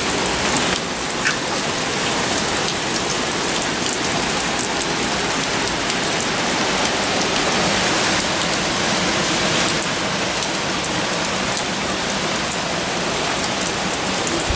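Steady rain of a tropical storm falling on the yard and pavement, heard as an even, unbroken hiss.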